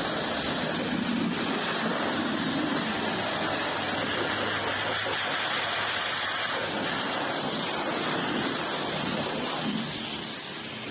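Water spraying hard from a pressure-washer wand, a steady rushing hiss that eases slightly near the end.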